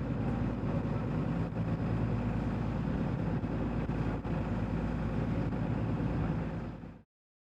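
A boat's engine running steadily, with a deep, even hum. It cuts off suddenly near the end.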